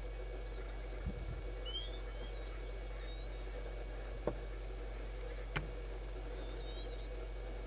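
A few short, high bird chirps with slight pitch glides over a steady low hum, with two sharp clicks in the second half.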